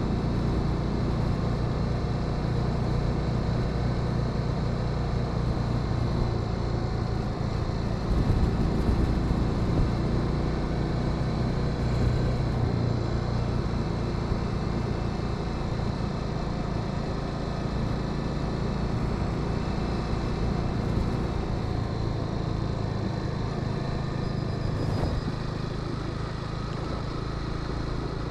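Honda Sahara 300 single-cylinder motorcycle engine running steadily while riding, picked up close with road and wind noise. It briefly gets louder about eight seconds in.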